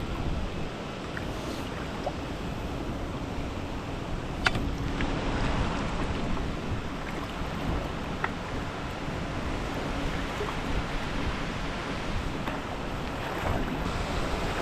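Steady rush of flowing creek water, with wind buffeting the microphone and a few faint clicks.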